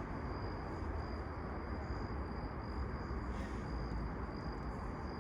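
Outdoor ambience: a low steady rumble with a thin, high insect trill running through it, breaking off briefly now and then.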